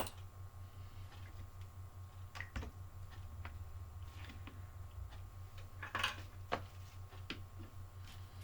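Light scattered clicks and taps from handling wires and tools while soldering RC car electrics, with a sharp click right at the start, over a steady low hum.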